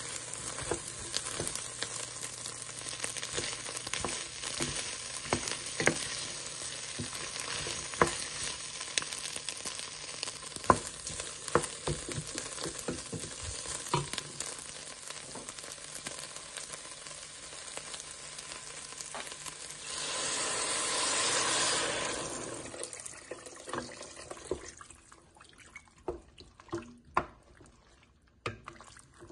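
Prawns and vegetables sizzling in a stainless steel pot, stirred with a wooden spoon that knocks against the pot now and then. About two-thirds of the way in the hiss swells loudly for two seconds, then the sizzling dies away once liquid is in the pot, leaving only scattered spoon knocks.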